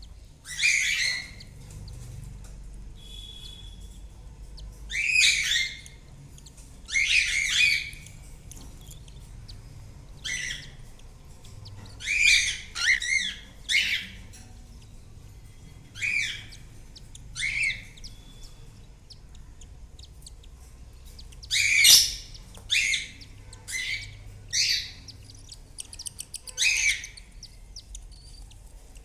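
Cockatiels calling: short, shrill chirping calls, one at a time or in quick runs of two or three, spaced a second or several apart, over a faint low hum.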